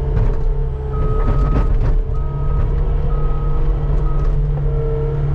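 Skid steer engine running steadily while its backup alarm beeps four times, about a second apart, as the machine reverses.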